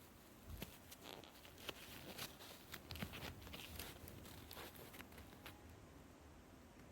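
A sponge being worked by hand: a run of small crackly scratches and clicks that starts about half a second in and dies away after about five seconds.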